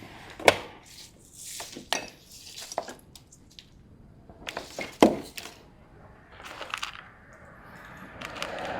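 Scattered sharp clicks and clanks of small hand tools and parts being handled during wiring repair, the loudest about half a second in and again about five seconds in. A soft rushing noise swells up near the end.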